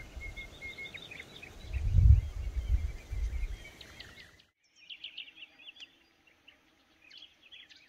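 Small birds chirping and twittering, with a low rumble on the microphone that is loudest about two seconds in. A little past halfway the sound drops abruptly and the birds go on, quieter.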